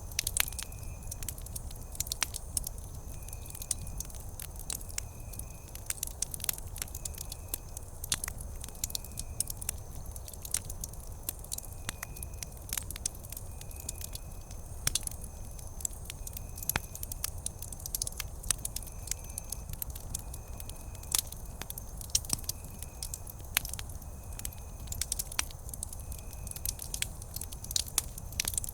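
Wood campfire crackling: frequent sharp, irregular pops and snaps over a low, steady rumble of the burning fire.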